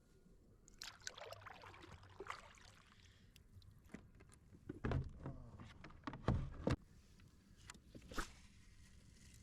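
Faint rustling and scattered knocks from someone moving about in a Pelican Catch 100 plastic fishing kayak. The loudest knocks come as a few in a row about five to seven seconds in.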